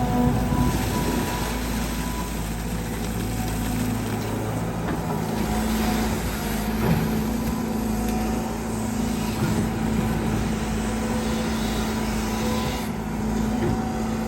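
Caterpillar 320GX excavator's four-cylinder turbo-diesel Cat C4.4 engine running steadily under working load, with the hum of its hydraulic pump. There are a few knocks, one clear about seven seconds in.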